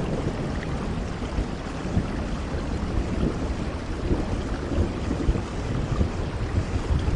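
Steady rainfall: an even hiss of rain over a continuous deep, uneven rumble.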